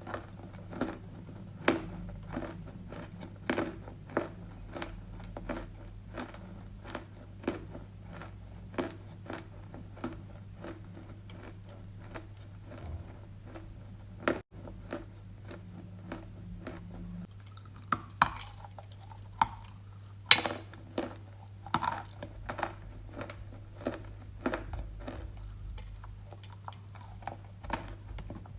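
Dry edible clay being chewed close to the microphone: a string of crisp crunches and crackles, several a second, with a louder run of crunches about two-thirds of the way through.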